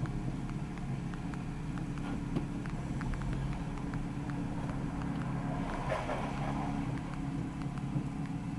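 Steady low engine and road noise of a car driving, with a few faint light ticks.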